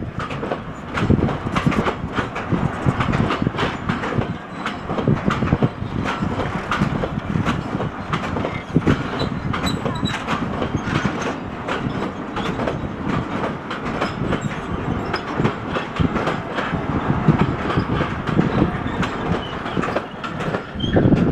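Freight train wagons rolling past at speed, their wheels clacking over the rail joints in a dense, irregular run of clicks over a steady rumble.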